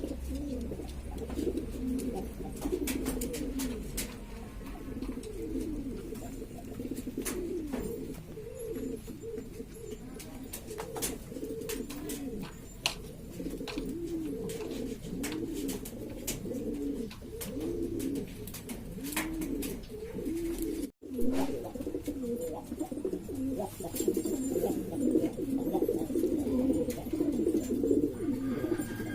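Several domestic pigeons cooing continuously, many coos overlapping one another, with scattered sharp clicks among them and a brief break in the sound about two-thirds of the way through.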